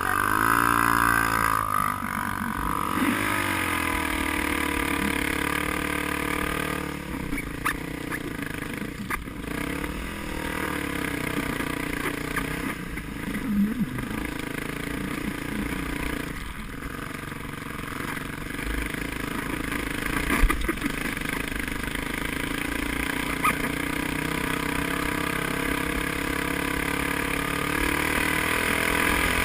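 Vehicle engine running hard, its pitch sweeping down and up as it revs in the first ten seconds or so, then holding a steadier note for the rest.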